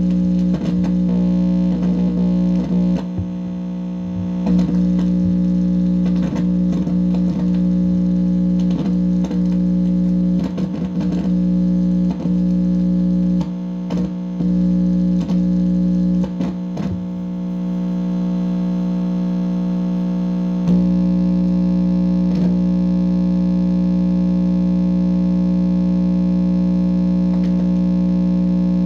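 Distorted electrical buzz from an amplifier: a loud steady hum with overtones, broken by frequent crackles, pops and short squeals for about the first seventeen seconds, then holding steady with only a couple of pops.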